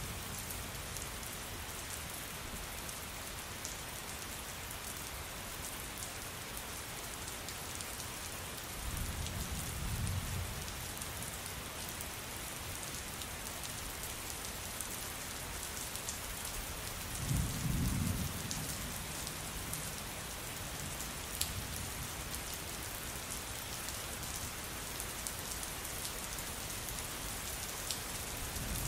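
Steady heavy rain falling on a surface, an even hiss, with low rolls of thunder rumbling twice: once about a third of the way in and more strongly just past the middle.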